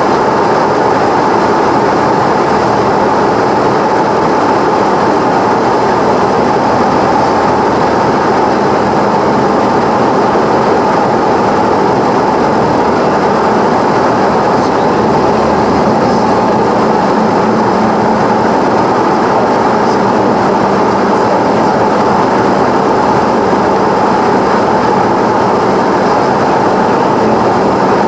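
Cessna 172's piston engine and propeller running steadily, a constant drone with no change in pitch or level.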